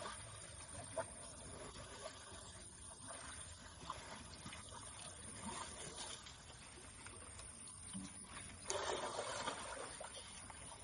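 Water splashing and sloshing at a low level, with a few faint knocks and a louder rush of splashing about nine seconds in.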